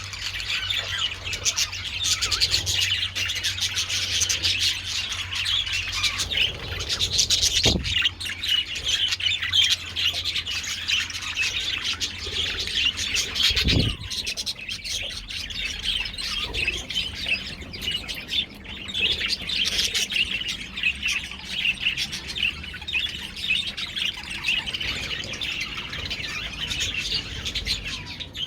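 A colony of budgerigars chattering and chirping, with many birds warbling over one another without a break. Two brief low thumps sound about a quarter and halfway through.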